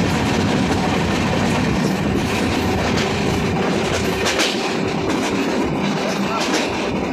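Passenger train coach running along the track, heard from an open doorway: a steady rumble of wheels on the rails with rushing air, and a few sharper clicks as the wheels pass rail joints.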